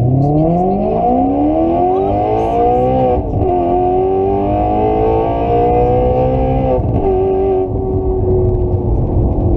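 Car engine accelerating hard through the gears: its pitch climbs, drops with an upshift about three seconds in, climbs again, drops with a second upshift about seven seconds in, then holds steady.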